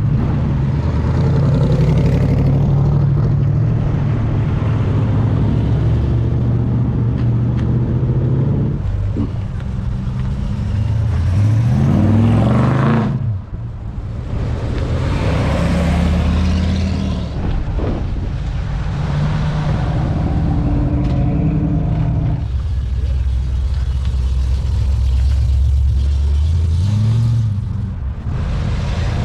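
Classic and muscle cars driving out one after another, their engines running low and steady. One accelerates with a rising pitch about halfway through, and another revs up briefly near the end.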